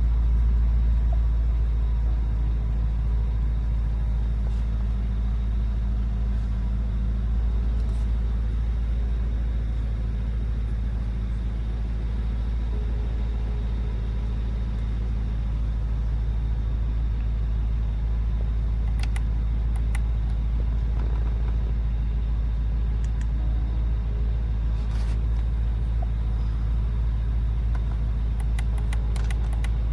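Porsche Cayenne Turbo GT's twin-turbo V8 running at a steady idle, a deep even rumble, with a few faint clicks in the second half.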